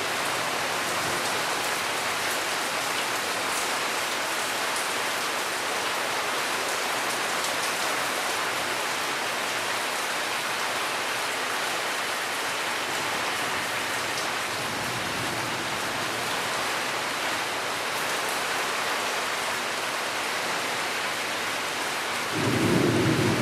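Steady rain falling in a thunderstorm. A low rumble of thunder swells faintly partway through, then a loud rumble breaks in near the end.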